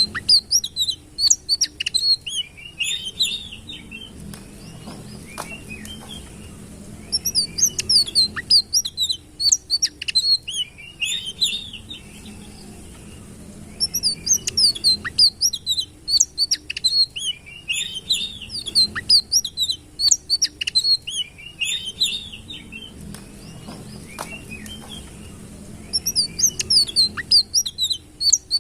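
A sitrun songbird singing a fast, high-pitched twittering song in bursts of several seconds, broken by short pauses of a second or two.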